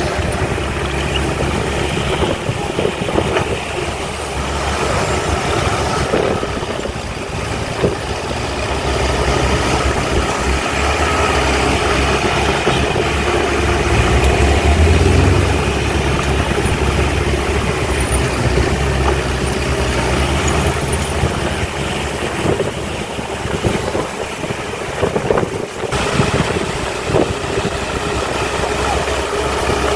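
Heavy diesel engines of earthmoving machinery running steadily, swelling louder about halfway through, with a few brief knocks.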